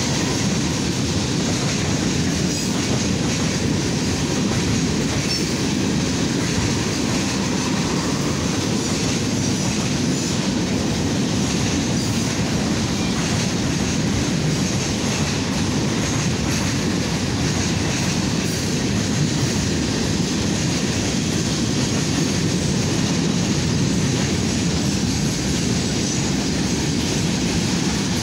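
Freight train rolling past: a steady, unbroken noise of steel wheels running over the rails, holding the same level throughout.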